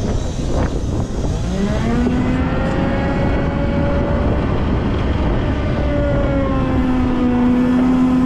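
Volvo L90F wheel loader's diesel engine running hard, its pitch rising about two seconds in, easing off and rising again near the end as the throttle changes while it works.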